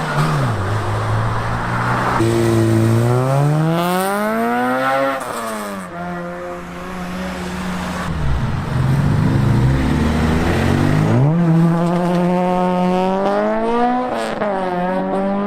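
Car engines accelerating away, pitch climbing and then dropping at gear changes, twice over, with a steady-pitched engine between the climbs.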